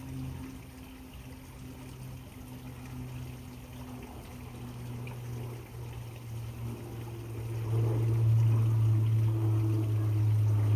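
A steady low motor-like hum that grows louder about eight seconds in, over a faint trickle of water.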